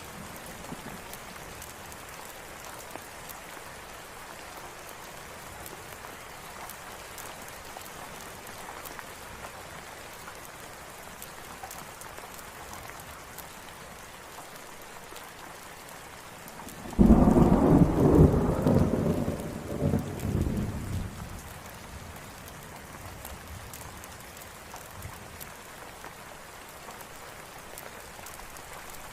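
Steady rain falling, with a loud roll of thunder that breaks in suddenly more than halfway through and rumbles away over about four seconds.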